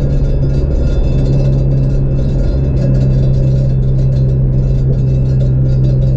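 Toyota Celica GT-S's 2ZZ-GE four-cylinder engine and aftermarket TRD exhaust droning steadily at freeway cruise, heard from inside the cabin over tyre and road noise.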